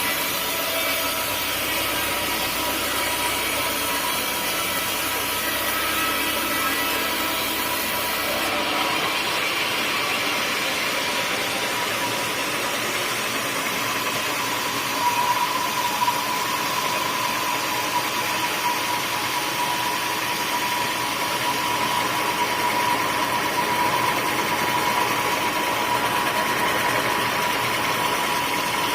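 Sawmill saw running steadily through wood, with a steady whine. The sound changes about eight seconds in, losing its low hum.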